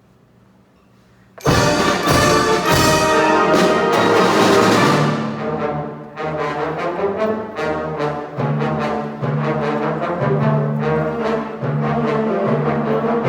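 School wind band playing: after a hushed moment, the full band comes in suddenly at full volume about a second and a half in, brass over struck percussion and timpani, then settles into a steady rhythmic passage with a repeating low bass figure.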